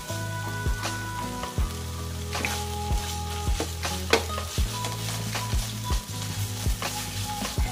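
Pork and shrimp paste (bagoong alamang) sizzling in a frying pan, with sharp knocks and scrapes of a utensil stirring it about once a second.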